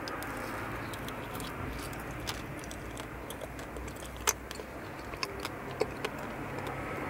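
Close-miked chewing of sweets: a steady wet mouth noise with scattered sharp clicks, the loudest about four seconds in.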